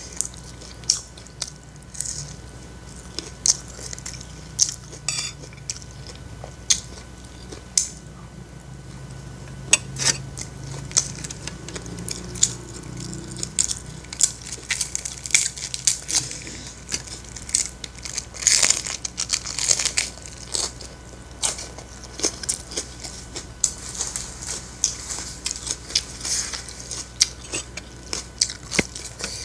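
Close-miked eating: many sharp, crisp crunches and chewing from bites of raw napa cabbage leaf, with a spoon clinking and scraping on a plate of fried rice near the end.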